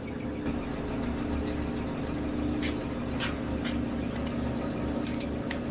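Metal lathe running steadily while it takes a turning cut on a warped steel axle shaft, truing a section for the chuck jaws to grip. A constant motor hum with a low pulsing rumble, and a few short sharp high sounds from the cut about halfway through and again near the end.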